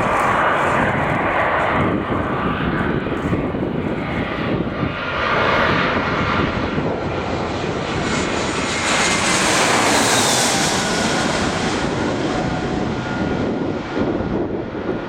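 Airliner on landing approach passing low overhead, the engine noise swelling to a peak with a high hiss about ten seconds in, then fading.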